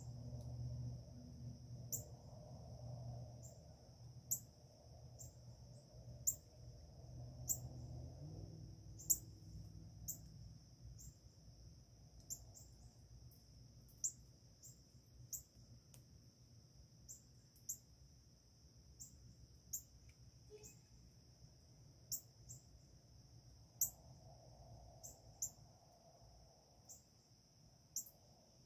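Faint outdoor chorus: a steady high insect drone of crickets or similar insects, with short sharp bird chirps repeating irregularly about once a second. A low rumble sits underneath for the first eight seconds or so and returns briefly near the end.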